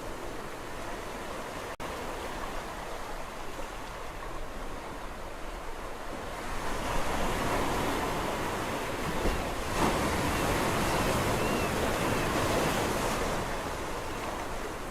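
Sea waves on a shore: a steady wash of surf, with one wave swelling louder about six or seven seconds in and washing back out near the end.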